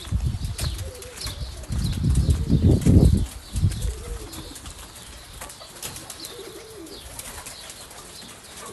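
Feral pigeons cooing, with a loud flurry of wing flapping about two to three seconds in.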